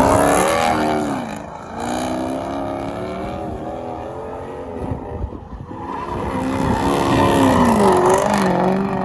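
A truck engine revving up and easing off twice, its pitch climbing near the start and again about six seconds in.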